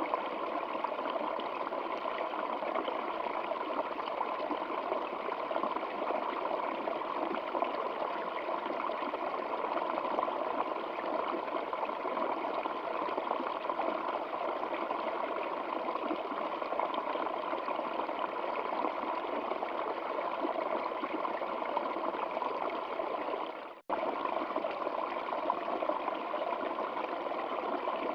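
Water of a stream flowing steadily, with a split-second dropout near the end.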